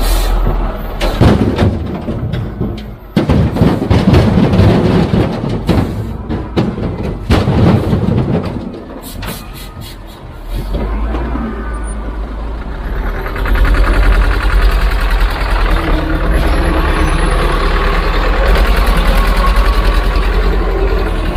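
Heavy diesel construction machinery working: a run of sharp knocks and clattering over the engine for the first several seconds, then a steady diesel engine that gets louder about thirteen seconds in.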